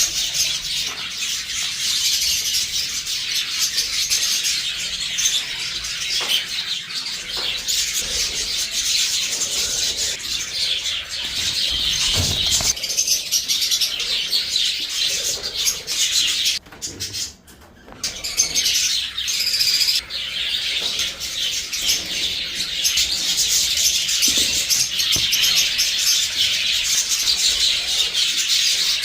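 Many small pet birds chirping continuously, with wing flutters, briefly cut off about seventeen seconds in.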